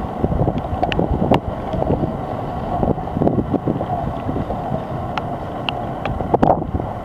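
Strong tornado wind buffeting the microphone: a dense, steady low rumble with scattered sharp knocks.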